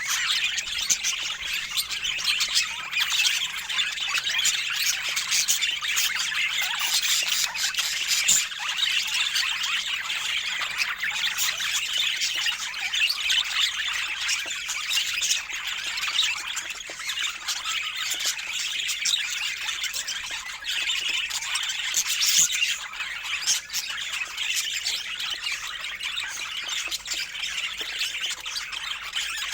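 Budgerigars chattering continuously: a dense, unbroken stream of short high chirps and squawks.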